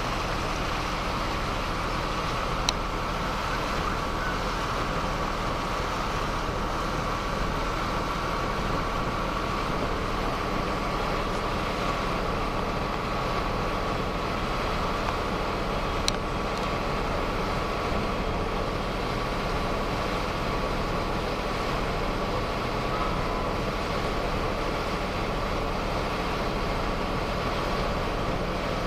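Boat engine running steadily under way: a constant drone with a thin steady whine above it, and a couple of faint clicks.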